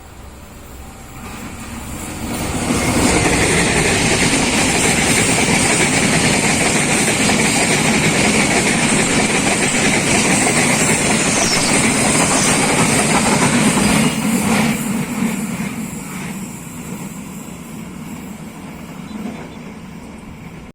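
A train passing close by over a level crossing, its wheels running on the rails. The sound builds over the first few seconds, stays loud and steady for about eleven seconds, then fades away.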